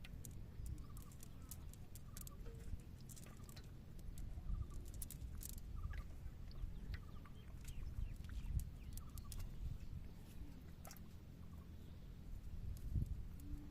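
Faint short bird calls, repeated every second or so, over scattered clicks and a steady low rumble.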